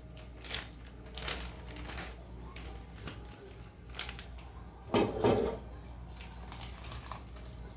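Kitchen handling sounds: scattered light clicks and knocks of utensils and dishes, with one louder clatter about five seconds in.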